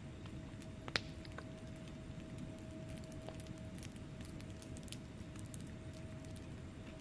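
Wood fire crackling in a fireplace: a steady low rumble of burning logs with scattered small pops and one sharp, louder pop about a second in.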